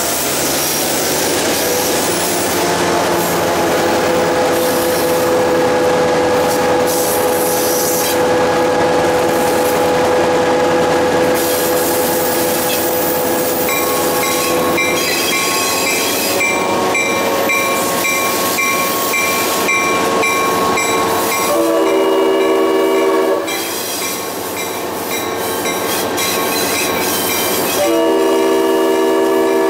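Train running along the track, with its wheels squealing on a curve in long, steady, high tones. The locomotive's air horn then sounds twice: a short blast about three-quarters of the way through and a longer one near the end.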